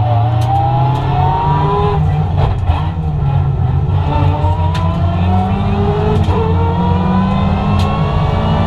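Ford Fiesta ST150 rally car's engine heard from inside the cabin, running hard under acceleration: the revs climb, drop at about two seconds and again about six seconds in, then climb again.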